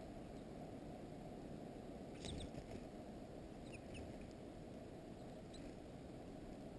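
Faint short, high call notes from small songbirds at a feeder: a cluster about two seconds in, a few more around four seconds, and one near the end, over a steady low background rumble.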